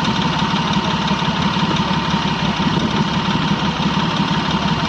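Diesel engine idling steadily with a rapid low throb and a steady high hum, typical of an idling diesel locomotive.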